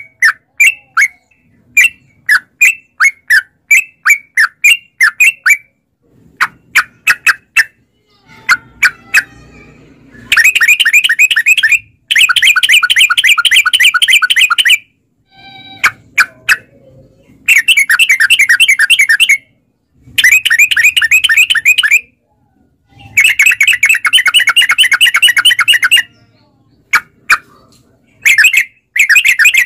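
Yellow-vented bulbul (trucukan) singing loudly. It opens with a string of short, separate bubbly notes, then breaks into long rapid rattling chatters of two to three seconds each, with short pauses between them.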